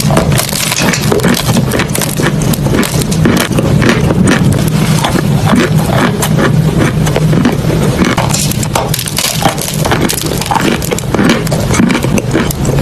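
Close-up crunching of a crumbly material, a dense run of sharp crackles and snaps that goes on without pause over a low rumble.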